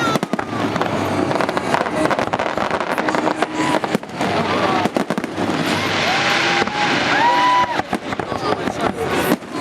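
Holiday fireworks salute: a rapid run of bangs and crackling bursts, with spectators' voices and long held shouts in between.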